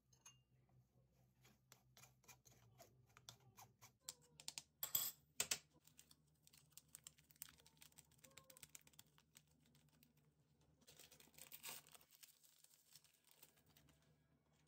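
Faint scattered clicks and taps, with two louder sharp clicks about five seconds in and a short rustle near the end.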